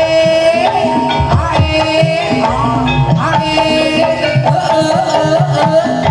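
Kuda lumping accompaniment music: hand drums beating a busy rhythm under a sustained, wavering melody line.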